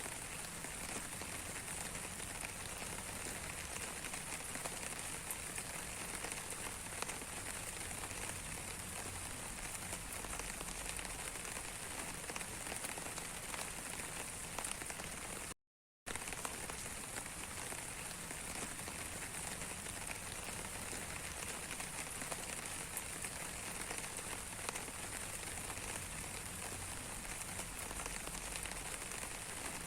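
Rain falling steadily, an even hiss dotted with many small drop ticks. The sound cuts out for about half a second near the middle, then resumes unchanged.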